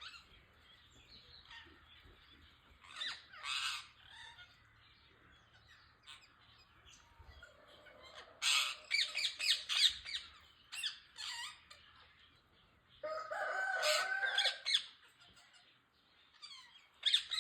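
Ringneck parrots calling: harsh squawks and chattering in bursts a second or two long, with pauses of a few seconds between, the longest and fullest call about two-thirds of the way through.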